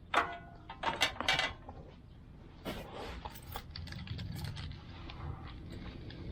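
Hard objects clinking and clattering as they are handled, with three sharp clinks in the first second and a half and a looser clatter about three seconds in.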